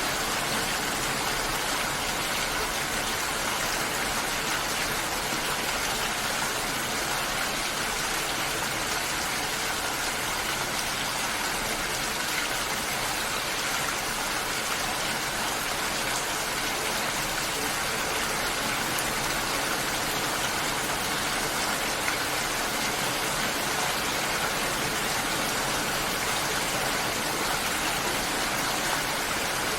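Water making a steady, even hiss, unchanging throughout.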